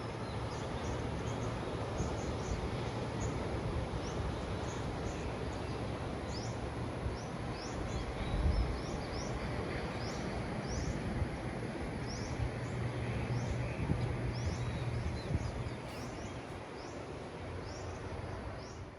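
A bird repeating a short rising chirp about once a second over a steady rushing background, with a low rumble that swells now and then.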